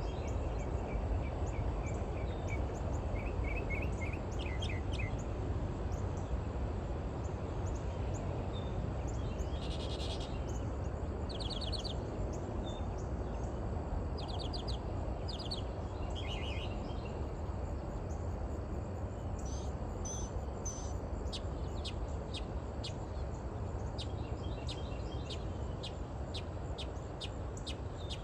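Small birds calling: scattered bursts of rapid chirps and short trills, then a run of quick single chirps near the end, over a steady low background rumble.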